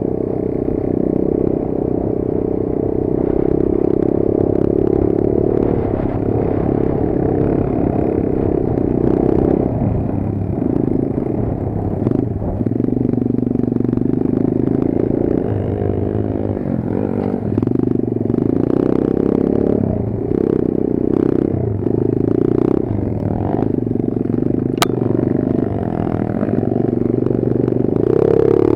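Kayo 140 pit bike's single-cylinder four-stroke engine running while riding, the revs rising and falling, with knocks and clatter from the bike over rough ground.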